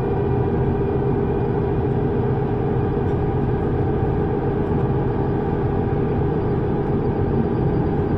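Subway train running steadily: a constant rumble with several steady motor tones over it.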